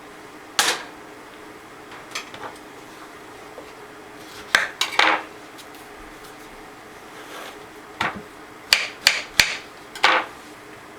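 Pot and kitchen utensils clinking and knocking as hot custard sauce is served out: a single clink, a short cluster midway, and a quick run of several clinks near the end.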